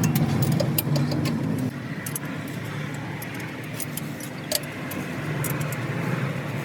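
An engine or motor running steadily, with light metallic clinks.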